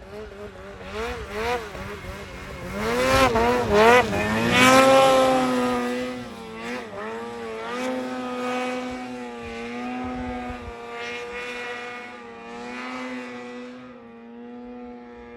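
Snowmobile engine revving, its pitch rising and falling over the first few seconds, then running at a fairly steady speed.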